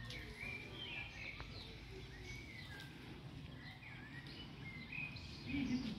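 Small birds chirping and calling over a steady outdoor ambience, in short rising and falling chirps. A brief, louder low sound comes near the end.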